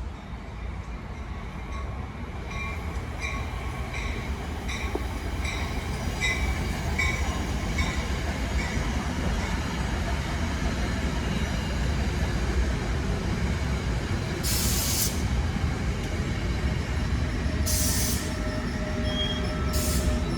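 A train running past on the main line. A rumble builds over the first several seconds, with regular wheel clicks for a while, and three short high squealing hisses come from the wheels in the last six seconds.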